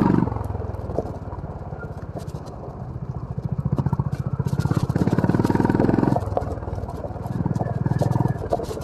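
Honda CB350 RS's air-cooled single-cylinder engine running on an off-road trail as the throttle is opened and closed. It is loud at first and drops off sharply right after, then runs lower for a few seconds. It picks up again for about two and a half seconds past the middle, backs off, and opens up once more near the end. Scattered sharp clicks and rattles are heard throughout.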